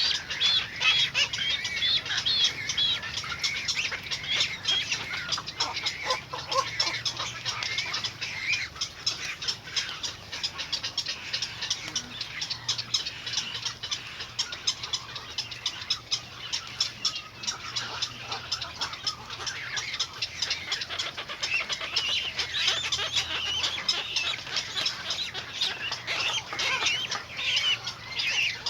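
Small birds chirping continuously, a dense run of short, high calls with no pause.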